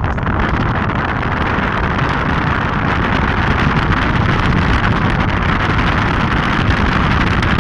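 Floodwater rushing, a loud steady noise, with wind buffeting the microphone.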